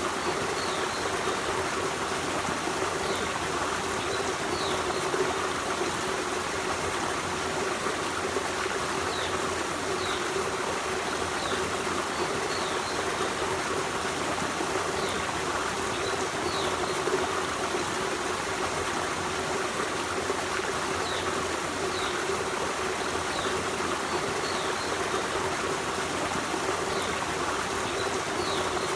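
Forest stream running steadily, a continuous rush and trickle of water. Faint short high chirps recur every second or two.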